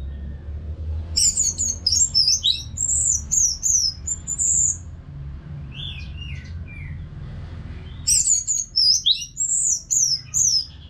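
Orange-headed thrush singing: two long bursts of rapid, high, varied notes, starting about a second in and again near eight seconds, with a few lower falling notes between them, over a low steady hum.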